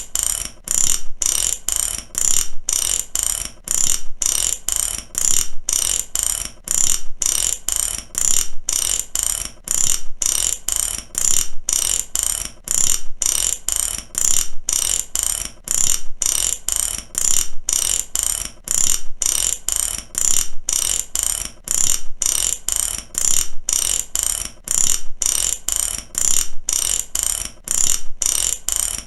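Socket ratchet wrench clicking in repeated strokes, its pawl snapping over the gear teeth in an even, steady rhythm of sharp metallic clicks.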